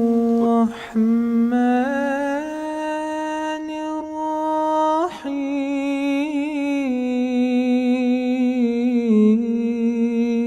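A single voice humming in long held notes, stepping between a few pitches with a slight waver. It breaks off briefly for breath about a second in and again about five seconds in.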